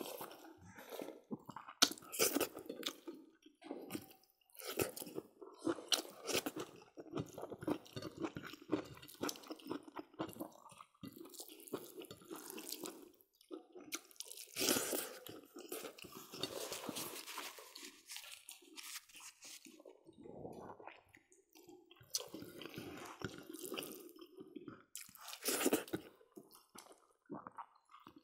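Close-up wet chewing and crunching as several people eat pork curry, greens and rice by hand, in short irregular bursts.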